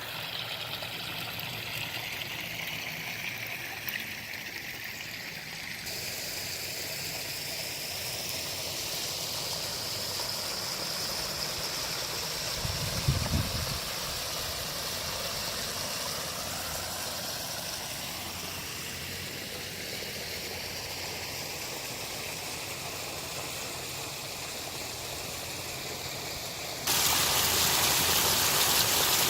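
Water from a pondless waterfall and stream splashing and running steadily over rock. It gets clearly louder and fuller near the end. There is one brief low thump or rumble around the middle.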